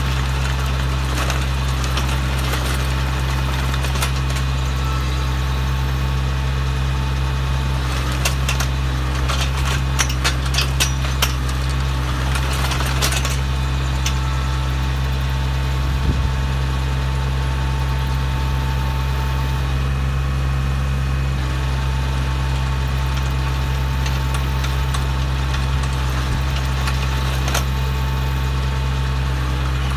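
Tractor engine running steadily under load, turning a PTO-driven 3-point hitch post hole digger with a 9-inch auger boring into the ground. A cluster of clicks and clatter comes about a third of the way through.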